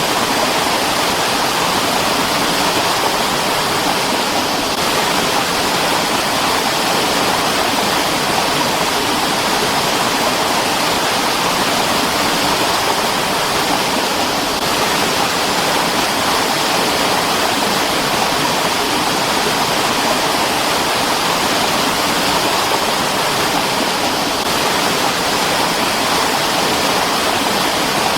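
Mountain stream water rushing with a steady, even noise that does not change.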